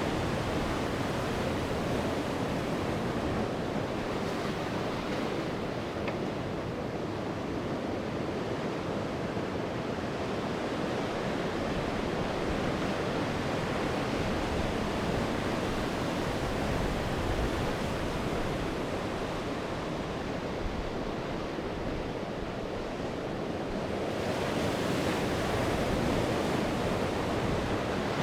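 Sea waves breaking and washing on the shore in a continuous rush, easing for a while and then swelling again about three-quarters of the way through, with some wind on the microphone.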